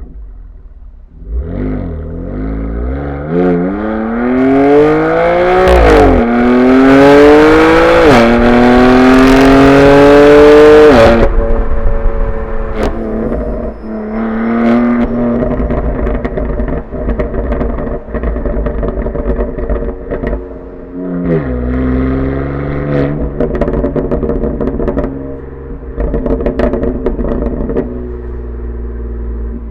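BMW M4 Competition's twin-turbo straight-six accelerating hard through the gears, with M Performance titanium exhaust. The engine pitch climbs, drops at two quick upshifts, and cuts off about eleven seconds in when the throttle is lifted. Pops and crackles from the exhaust on overrun follow, then a shorter pull about twenty-one seconds in and more pops.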